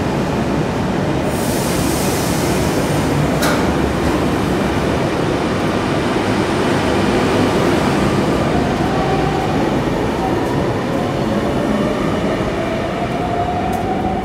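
Sydney Trains stainless-steel double-deck suburban electric train running out along the platform, a steady rumble of wheels and motors. A burst of hiss comes in about a second in, then a sharp click. In the second half a whine rises in pitch as the train picks up speed.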